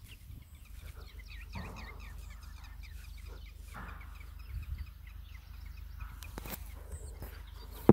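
Birds chirping in quick short notes, over and over, above a low steady rumble, with a sharp click at the very end.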